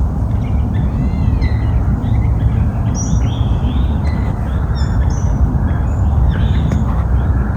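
Several small birds chirping and calling in short, arching notes, over a loud, steady low rumble.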